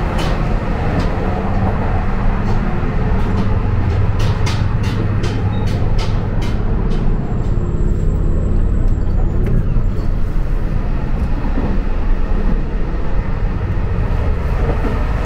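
Running noise of a JR Hokkaido 261-series diesel limited-express train, heard inside the carriage: a steady low rumble with a run of sharp clicks through the first half.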